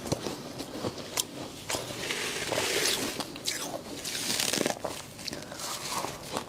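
Close-up crunching and biting of soft frost, with many short crackling crunches in quick, irregular succession.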